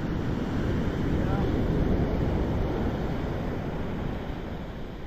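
Surf washing up the beach, with wind buffeting the microphone; the wash swells to its loudest about two seconds in and then fades.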